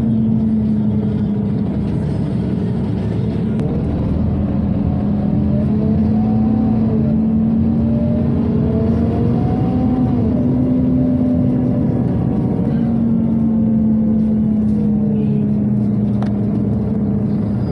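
Scania OmniCity city bus under way, heard from inside: a steady loud hum of engine, driveline and ventilation, with a low tone and a higher whine that rise and fall gently together as the bus speeds up and slows.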